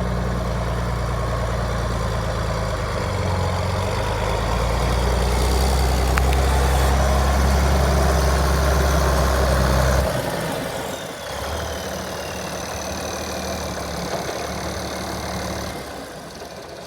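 International Harvester 1566 tractor's six-cylinder turbo diesel running, louder for several seconds. About ten seconds in it drops abruptly to a quieter, lower run, and a high whine slides down in pitch.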